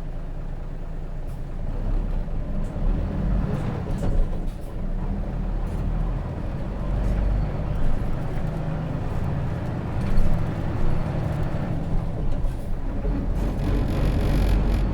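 Hino RJ bus with a J08C inline-six diesel, heard from inside the cabin while driving, its engine pulling harder from about two seconds in. Body rattles and knocks run throughout, and a hiss comes near the end.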